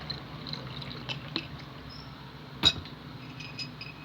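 Tableware clinking: a few light taps, then one sharp clink about two and a half seconds in, over a low steady hum.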